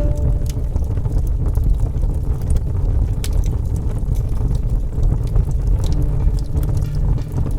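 Wood fire burning, a steady low rumble of flames with many small sharp crackles and pops scattered through it.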